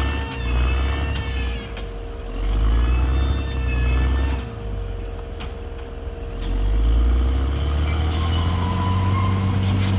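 Bulldozer's diesel engine working under load, its low drone surging and easing about three times, with high, wavering squeals over it.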